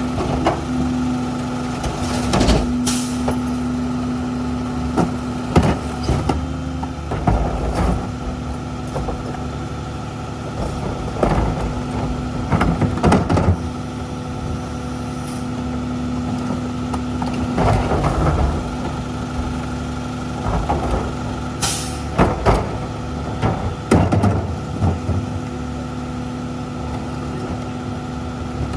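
Ford F-750 garbage truck with a Heil rear-loader body running with a steady engine drone, with repeated clanks and knocks throughout. Two short, sharp air hisses come about 3 seconds in and again about 22 seconds in.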